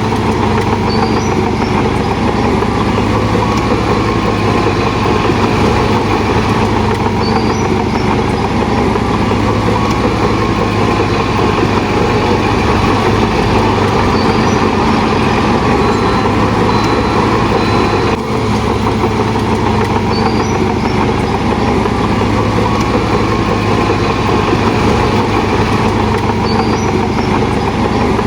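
Heavy diesel engine of construction machinery running steadily at a constant loud drone.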